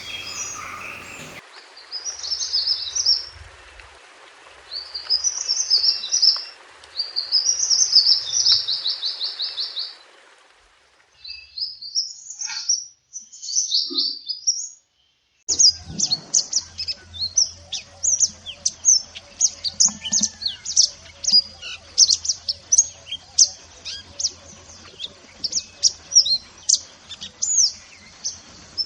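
A mantenan gunung songbird's high-pitched twittering song. It comes in short phrases, some ending in fast trills. About halfway through it changes to a continuous stream of quick, sharp chirps.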